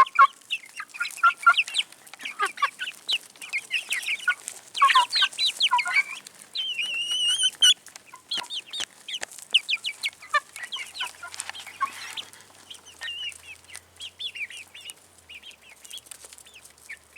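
A group of young Black Sex Link chickens peeping and clucking in many short, quick calls, with one longer call about seven seconds in. Light tapping and scratching sounds run among the calls.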